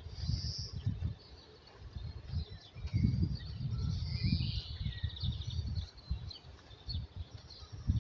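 Songbirds chirping and singing throughout, over uneven low rumbling on the microphone that is loudest about three to five seconds in.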